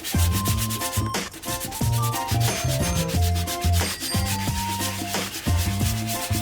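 Fine 1000-grit sandpaper rubbing over the suede of a boot in quick, repeated strokes, with background music playing under it.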